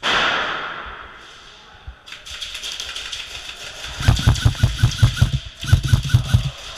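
A sudden loud bang that fades over about a second, then airsoft guns firing: rapid clicking, then two bursts of fast, evenly spaced shots about seven a second, the second burst shorter.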